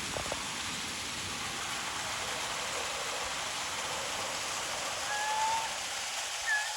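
Steady rush of flowing water in a herring-run brook, with a short thin whistle about five seconds in and another near the end.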